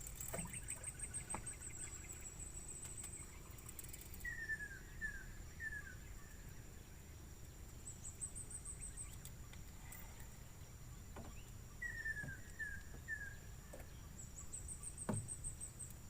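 Natural outdoor ambience: a steady high-pitched insect drone, with runs of rapid high chirps coming and going. A bird twice gives a phrase of three short falling whistles, and there is a faint knock about fifteen seconds in.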